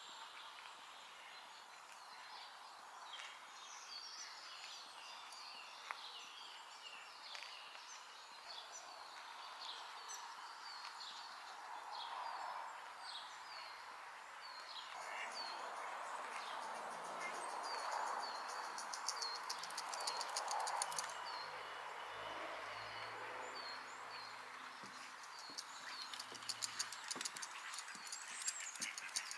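Many small birds singing and chirping over a steady rushing background of outdoor noise, with a faint low hum partway through.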